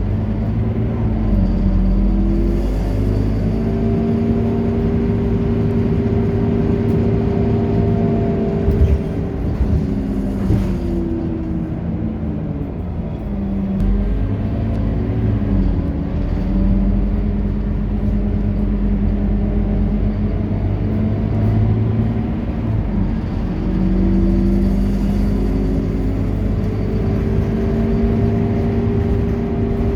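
Scania K230UB city bus's five-cylinder diesel engine running under way. The engine note climbs and settles several times as the bus accelerates through its gears. It drops away about ten seconds in as the bus eases off, then climbs again as it pulls away.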